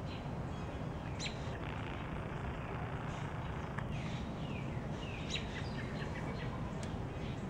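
Small birds chirping every so often, short high calls that slide down in pitch, over a steady low rumble.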